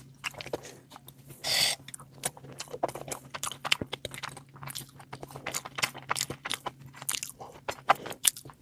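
A person eating close to the microphone: crunching and chewing food, with many quick irregular clicks and a short louder noisy burst about one and a half seconds in.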